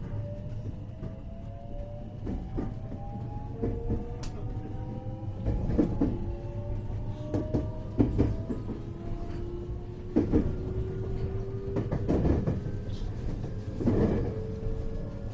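Traction motors of a 521 series electric multiple unit, heard inside the motor car, whining in several tones that rise slowly in pitch as the train accelerates. Over a steady low rumble, the wheels knock irregularly over rail joints.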